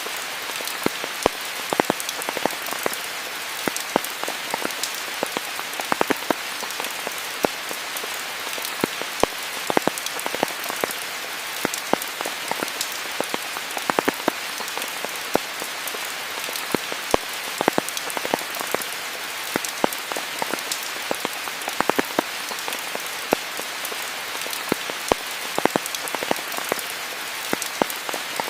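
Steady rain falling: an even hiss with frequent sharp, close drops striking throughout.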